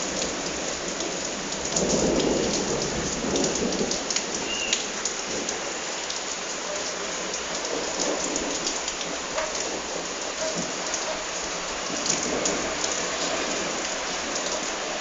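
Heavy rain falling and pattering on surfaces during a thunderstorm, with a rumble of thunder swelling about two seconds in.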